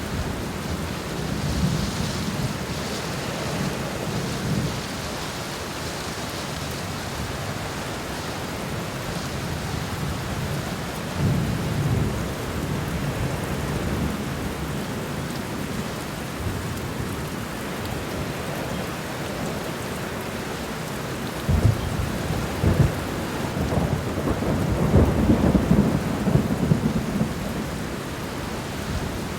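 Steady rain falling on the ground and leaves, a continuous hiss. Low rumbles swell up briefly at about 11 seconds in and again, louder and uneven, from about 21 to 27 seconds in.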